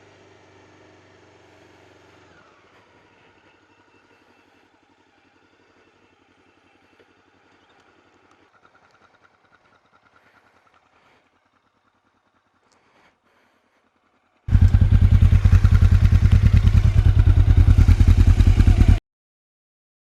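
Honda CB500S parallel-twin motorcycle engine running loud and close for about four and a half seconds, with rapid even firing pulses. It cuts in and out abruptly, after a faint steady engine hum at the start that fades away.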